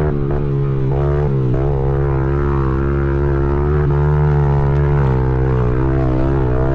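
Pit bike's small four-stroke single-cylinder engine running under riding, its pitch repeatedly dropping and climbing as the throttle is rolled off and on.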